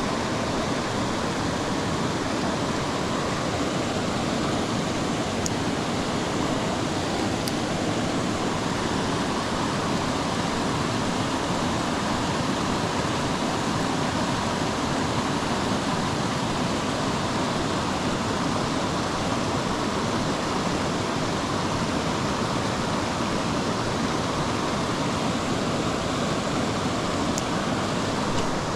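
Steady rush of creek water spilling over a small waterfall, an even hiss that does not change.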